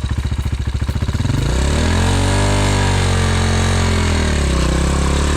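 Pit bike's single-cylinder engine idling with a fast, even putter, then revved about a second in: the pitch climbs, sags around four seconds in and climbs again.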